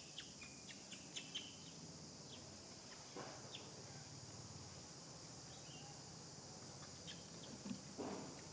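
Outdoor ambience: a steady high insect drone with scattered short high chirps, and two brief rustles, about three seconds in and near the end.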